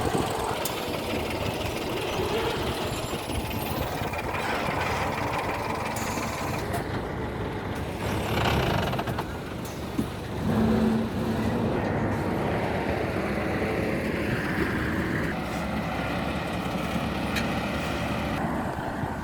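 Heavy diesel road-construction machinery running steadily, with a single sharp knock about ten seconds in.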